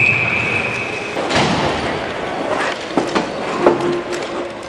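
Referee's whistle blown once, a steady high tone lasting about a second, over the noisy hum of a hockey arena, followed by scattered sharp knocks.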